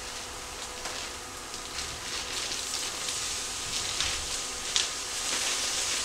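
Onions frying in butter and oil in a skillet, a steady sizzle that grows louder from about two seconds in as raw ground beef is tipped from a plastic bag into the pan. A few short clicks and crinkles from the plastic bag are heard over it.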